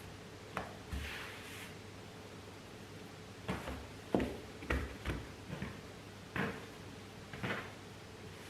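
Hands working semolina bread dough on a floured worktop: a brief swish, then a scattered series of short soft thumps and knocks as the dough is handled and pressed down on the counter.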